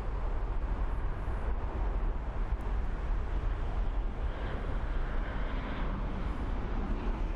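Boeing 747 freighter's jet engines on approach to land: a steady low rumble, with a higher hiss building from about halfway through as the aircraft nears.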